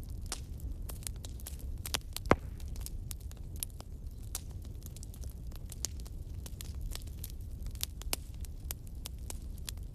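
Wood fire in a fireplace crackling with frequent sharp pops, one much louder pop about two seconds in, over a steady low rumble.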